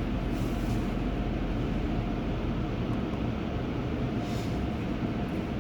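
Steady rumble and hiss of an automated car wash tunnel, heard from inside a minivan's cabin, with a faint steady hum.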